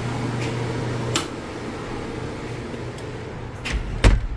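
A steady low machine hum that stops with a click about a second in, followed by a couple of sharp knocks and one loud thump near the end.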